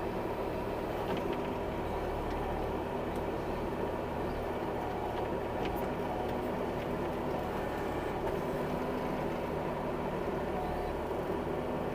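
Bobcat E26 mini excavator's diesel engine running steadily while digging, its even hum unchanged throughout.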